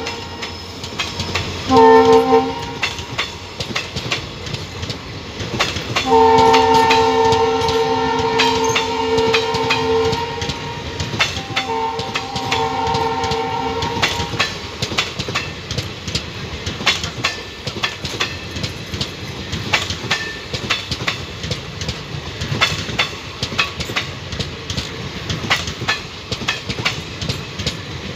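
Train horn sounding a short blast about two seconds in, then a long one from about six to ten seconds and another around twelve to fourteen seconds. Under it, ICF passenger coaches roll past with a steady clickety-clack of wheels over the rail joints.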